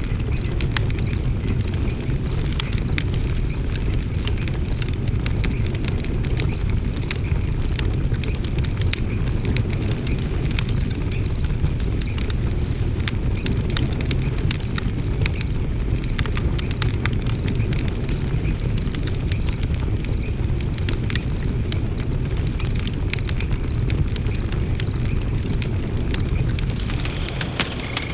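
Wood fire burning in a fire pit, crackling with many sharp pops over a steady low rumble. A faint, evenly pulsing high chirp sits in the background.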